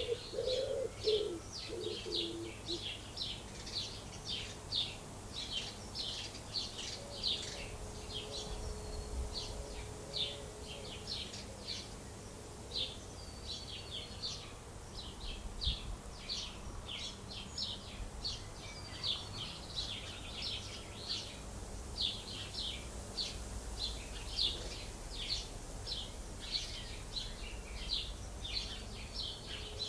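Small birds chirping continuously, several short high chirps a second, overlapping as from a flock. In the first couple of seconds a lower chicken call trails off beneath them.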